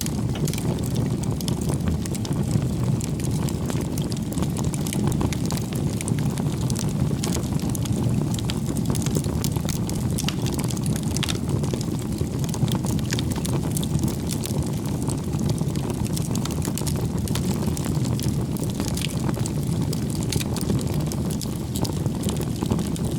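Bonfire burning: a steady low rumble of flames with frequent small crackles and pops from the burning wood.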